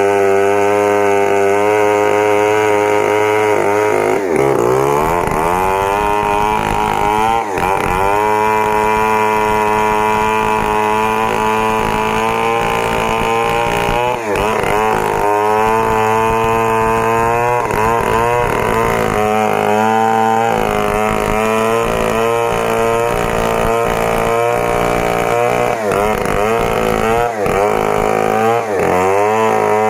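Stihl 070 two-stroke chainsaw running at high revs, its pitch sagging and recovering several times as it loads in the cut.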